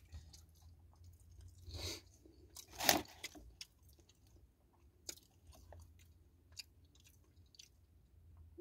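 A person chewing a bacon chicken sandwich close to the microphone: small wet clicks and crunches. Two louder crackles come about two and three seconds in.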